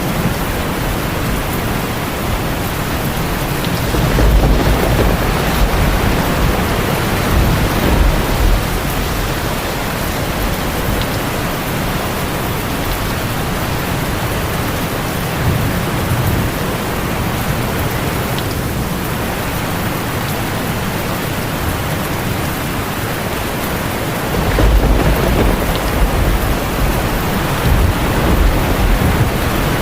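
Heavy rain drumming steadily on a tin roof, with thunder rumbling low twice, swelling about four seconds in and again near the end.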